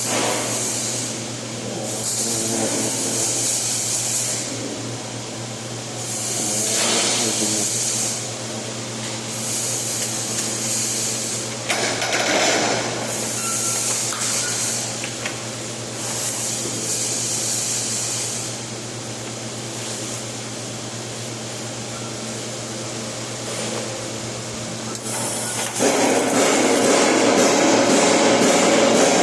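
Flux-cored arc welding: the arc crackles and sizzles in a run of short bursts, each a second or two long with brief pauses between, over a steady electrical hum from the welding machine. Near the end, a louder and different sound takes over.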